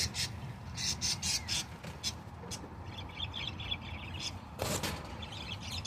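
Birds calling, with a run of quick chirps about three seconds in, among short scraping and rustling noises.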